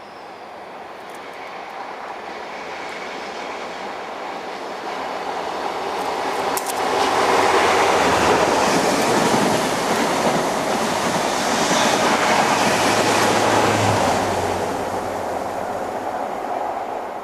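Diesel train approaching and passing close by. It builds up over the first several seconds, is loudest in the middle, and fades away near the end.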